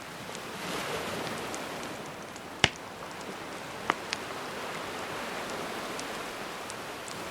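Gentle sea waves washing in steadily under a crackling campfire. A loud sharp pop from the fire comes about two and a half seconds in, followed by a couple of smaller pops a little over a second later.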